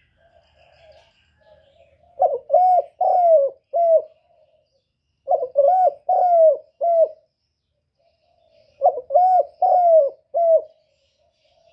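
A bird of the pigeon family cooing: three phrases of four or five short notes, about three seconds apart.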